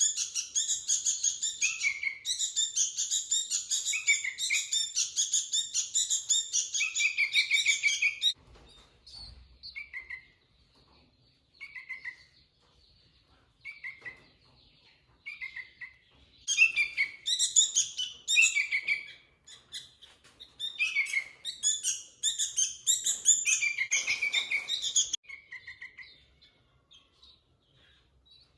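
Sooty-headed bulbul (kutilang) singing. Long runs of quick, high chirping notes last about eight seconds, then give way to a few short, separate falling calls. Two more dense runs follow from about sixteen to twenty-five seconds in, thinning to scattered notes near the end.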